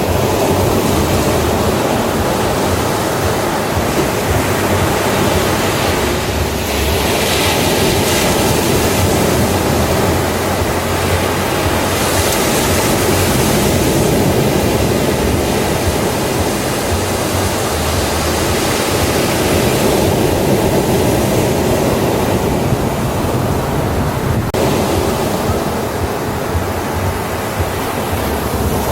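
Ocean waves breaking on a beach: a continuous rush of surf that brightens and fades in slow swells.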